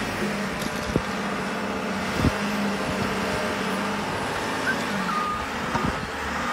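A large motor vehicle, truck-like, running steadily under a constant noisy hiss, with a couple of short knocks and a brief faint beep about five seconds in.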